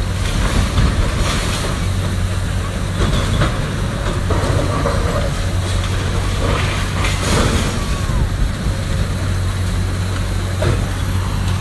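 Heavy demolition machinery's diesel engine running steadily, with scattered crashes and crunches of a building being torn down.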